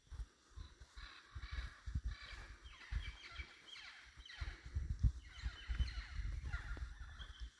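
Tropical forest birds calling together: many overlapping, quickly falling calls from about a second in, with low thumps underneath.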